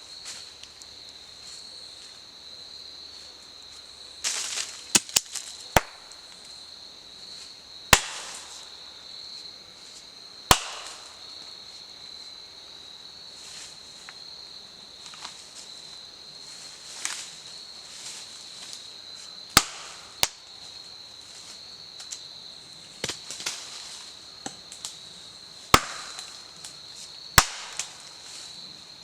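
Campfire wood popping and cracking with loud, sharp snaps at irregular intervals, some in quick pairs, over a steady high insect drone.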